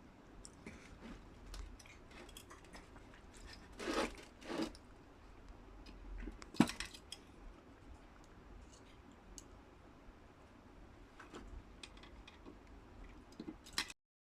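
Small clicks, scrapes and clinks of hand tools and metal parts being handled while a steam iron's thermostat contact is refitted, with a couple of louder rustling bursts about four seconds in and a sharp click a little later.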